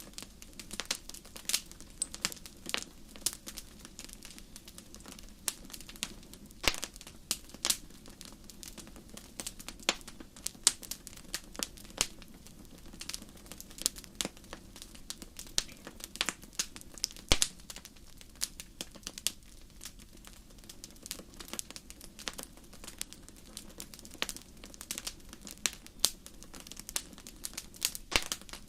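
Wood fire in a fireplace crackling, with irregular sharp pops and snaps, several a second, over a low steady rush of flame.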